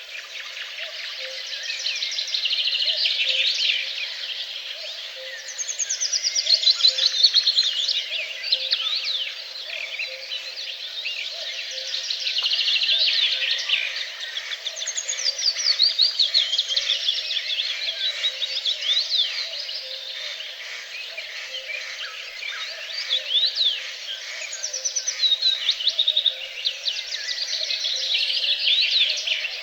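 Several songbirds singing at once, a dense chorus of overlapping chirps and quick trills that swells and eases every few seconds.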